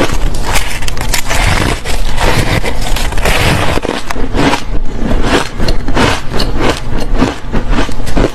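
Squeaky, fluffy ice being bitten and chewed close to the microphone: a dense run of rapid crunches and crackles, busiest a few seconds in.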